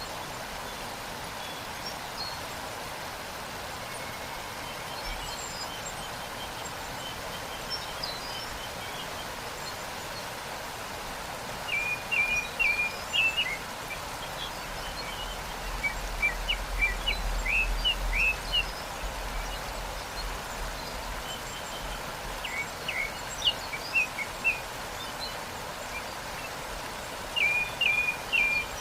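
Waterfall's steady rush of falling water, with small birds chirping in short bursts every few seconds over it.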